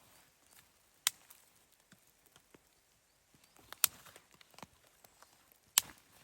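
Three sharp knocks or pops, about a second in, near four seconds and near the end, with fainter taps between.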